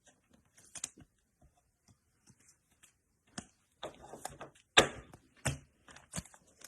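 Trading cards being handled on a table: scattered light clicks and taps, with a couple of sharper knocks about five seconds in.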